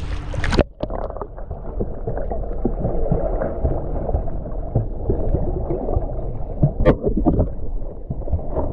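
Sea water heard through a submerged camera: a muffled low rumble with scattered clicks and bubbling. About half a second in, the bright surface splash noise cuts off suddenly as the camera goes under.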